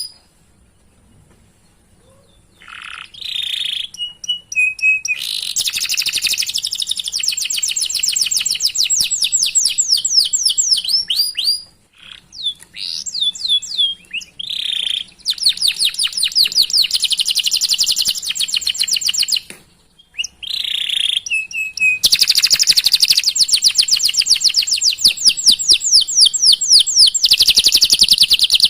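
Domestic canary singing long rolling trills: fast runs of repeated high chirps in phrases several seconds long, with short breaks between them. The song starts after about two seconds of quiet.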